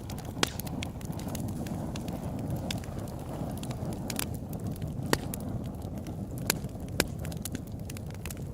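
Open-air campfire burning with a steady low rumble and irregular sharp crackles and pops of burning wood, a few louder pops standing out.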